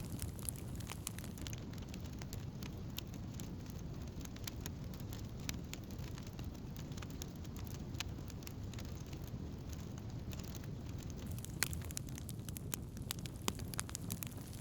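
Wood campfire burning: irregular sharp crackles and pops over a steady low noise, with a few louder pops near the end.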